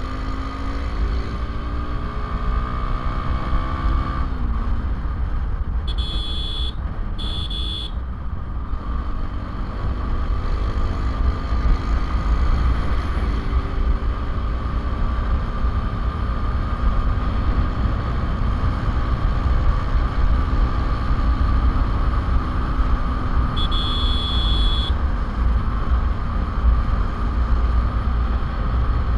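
Road traffic: motor vehicle engines running under a heavy low rumble, with an engine's pitch falling in the first few seconds. A vehicle horn beeps twice about six seconds in and once more, a little longer, near the end.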